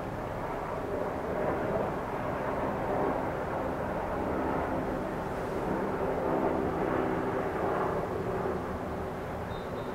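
Steady engine drone heard outdoors, swelling a little in the middle and easing off near the end.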